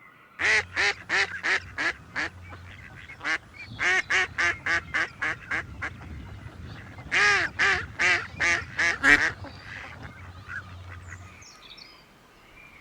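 Duck quacking in three quick runs of short, loud quacks, a few quacks a second, over a low steady background hum.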